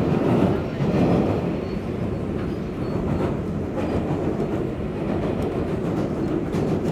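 Steady rumble of an R142A subway car running on the rails through a tunnel, heard from inside the car, with a few faint clicks.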